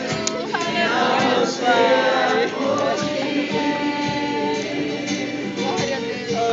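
A group singing a worship song together, many voices holding long notes.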